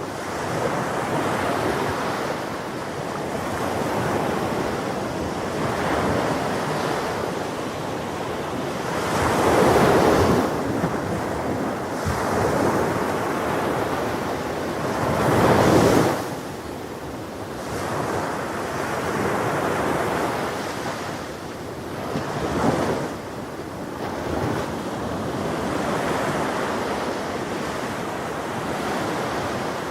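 Ocean waves breaking on a shore in a continuous wash of surf, swelling and ebbing every few seconds, with two louder breakers about a third and halfway through. Wind buffets the microphone.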